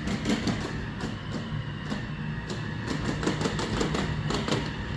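Roomba robot vacuum running in mopping mode: a steady motor hum with a rapid, irregular clicking and clattering over it.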